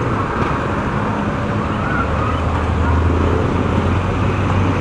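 Motorcycle running steadily under way, with road and traffic noise around it.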